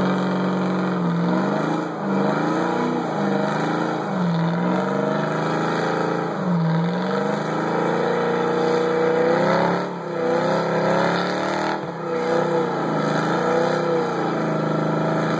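Ford Mustang engine held at high revs during a tyre-smoking burnout. The revs dip and climb again over and over, every second or two.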